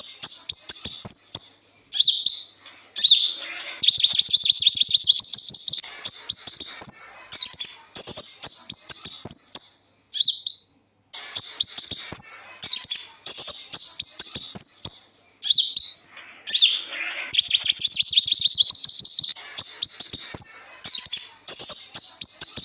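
Kolibri ninja sunbird singing: rapid, high-pitched twittering and trilling phrases in quick succession, broken by a short pause about halfway through.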